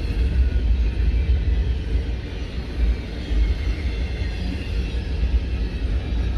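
Freight train cars rolling past a grade crossing close by: a steady heavy rumble of wheels on the rails, with faint high-pitched wheel sounds over it.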